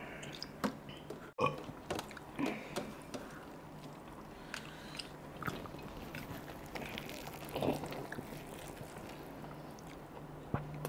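A person eating soft, sauce-covered noodles by the handful: quiet chewing and wet mouth smacks with scattered small clicks, over a faint steady hum.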